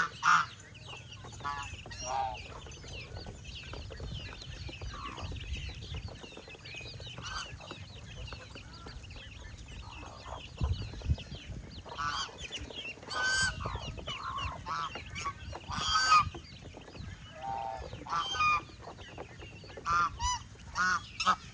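Domestic geese honking again and again, the loudest calls coming in clusters of two or three, over a constant bed of many softer, higher calls from the flock.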